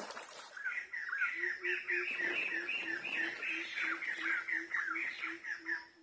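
Rapid series of short, repeated chirping animal calls, about four to five a second, with a lower pulsing note beneath; the calls stop abruptly at the end.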